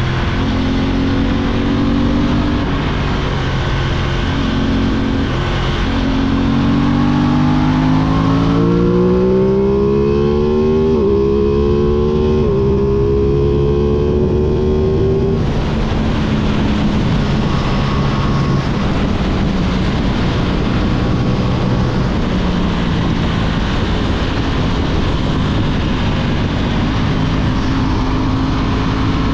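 Aprilia 660 parallel-twin motorcycle engine running, its pitch rising steadily for several seconds near the middle, with two brief dips along the way, then settling back to a steadier note.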